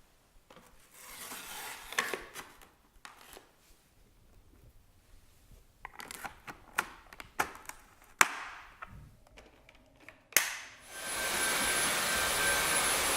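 Sharp plastic clicks and knocks from the Dyson V8 cordless vacuum and its motorhead being handled. About ten seconds in, a click and then the vacuum starts and runs with a steady rushing whine.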